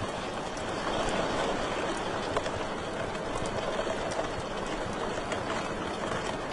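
Wood fire burning in a fireplace: a steady hiss with many small crackles scattered through it.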